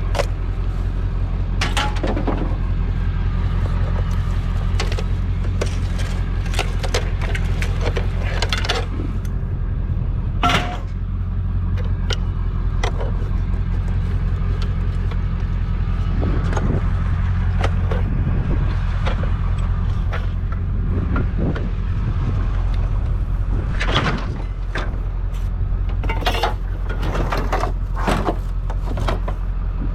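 Vehicle engine running with a steady low rumble, with many short sharp knocks and rattles over it.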